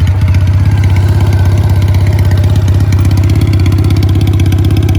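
2014 Triumph Bonneville T100's parallel-twin engine idling steadily through straight pipes with the mufflers deleted, just after starting: really loud, with an even, rapid run of exhaust pulses.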